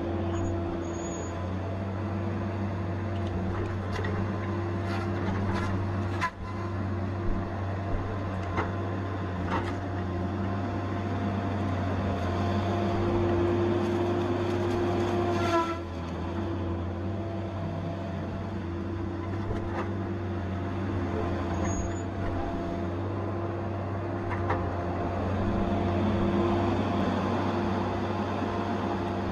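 Tigercat 870C feller buncher's diesel engine running steadily under work, with scattered sharp clicks and knocks for a few seconds and a brief falling squeal about halfway through.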